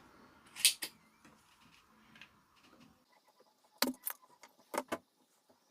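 A few sharp light clicks and metallic taps from small hard objects being handled: one just under a second in, then two pairs close together about four and five seconds in.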